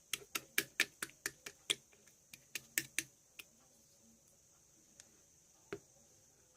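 A quick run of sharp clicks, about four a second for some three seconds, then a few single clicks further apart.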